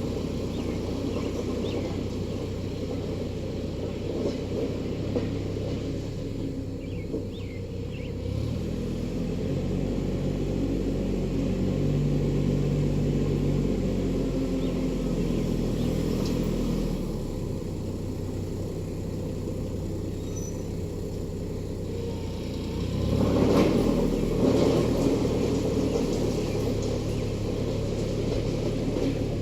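Ford E-350's 7.3 Powerstroke turbo-diesel V8 running under load while the van maneuvers a trailer loaded with gravel. The engine note rises about eight seconds in, settles back about halfway through, and surges louder again a few seconds before the end.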